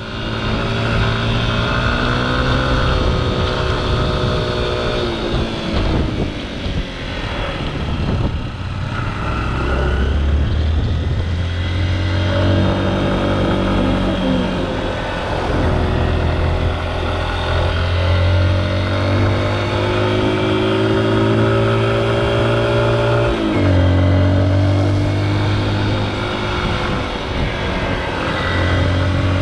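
Motorcycle engine running under way, its pitch rising and falling with the throttle and dropping sharply several times as the rider shifts or eases off.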